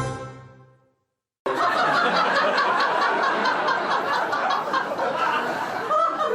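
A plucked double-bass note dies away, then after a brief silence a crowd starts laughing, many voices laughing together, like a sitcom laugh track.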